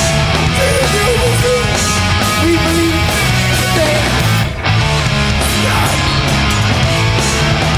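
Live hardcore punk band playing loud, with distorted electric guitars, bass and drums; the band stops for a split second about four and a half seconds in, then crashes back in.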